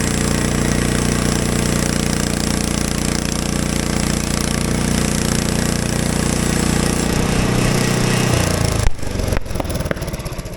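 Portable band sawmill running steadily, its small gas engine and blade working through a pine log. About seven seconds in, the engine pitch sinks. Near the end the engine drops back to a pulsing idle, with a few sharp knocks.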